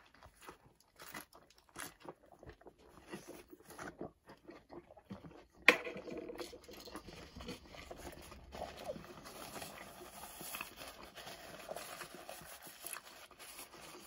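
Close-up mouth sounds of chewing a bitten Wendy's bacon cheeseburger, with small wet clicks and crunches. About halfway through comes a sudden sharp crackle, the loudest sound here. After it, paper rustles steadily alongside the chewing.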